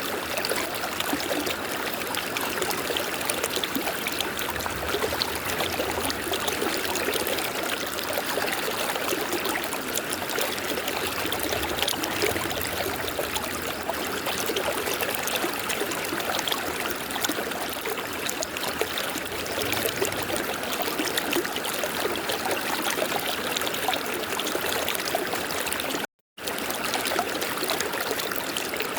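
River water flowing steadily over rocks, an even rushing with trickling and gurgling detail. The sound cuts out to silence for a fraction of a second near the end.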